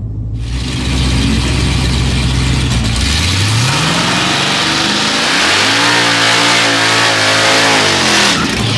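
Car engine at full throttle during a quarter-mile drag race, its pitch climbing and falling through the gears under a loud rush of wind noise, which cuts off abruptly near the end.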